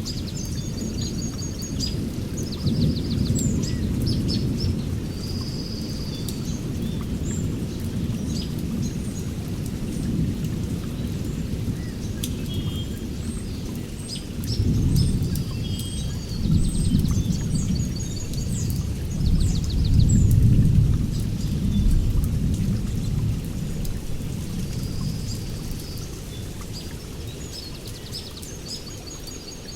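Rolling thunder during a rainstorm: a low rumble that swells several times, loudest about two-thirds of the way through, then dies away near the end. Steady rain runs underneath, with birds chirping and trilling in repeated short phrases.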